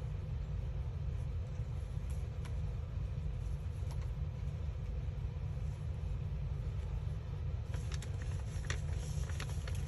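Steady low background rumble, with light rustling and small clicks of paper and craft pieces being handled and sorted, most of them near the end.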